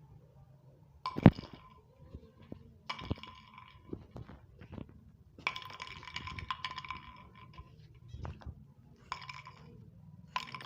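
A small bottle knocked about by a cat, clinking and rattling along a hard surface in five separate bursts. A sharp knock about a second in is the loudest sound.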